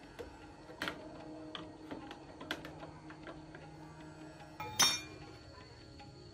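Small metal parts and tools clinking and tapping against each other during a machine repair, with one louder metallic clank near the end, over quiet background music.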